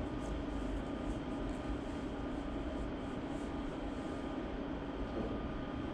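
Steady room hum with a constant low tone and no speech; a few faint ticks in the first second.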